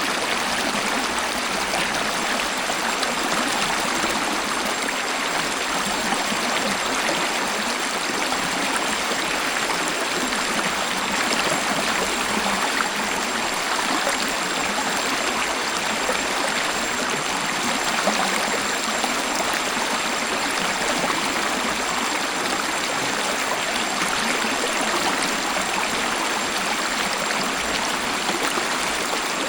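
Waterfall: water falling and flowing steadily, an even hiss of splashing water that does not change.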